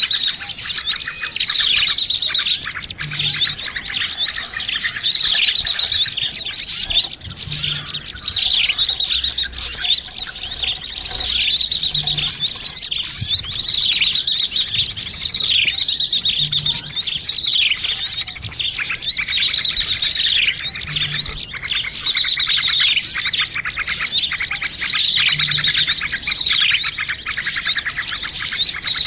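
A dense, noisy chorus of many small birds chirping and twittering at once, with quick high calls and short falling notes overlapping without a break, in a mix of bird-luring calls.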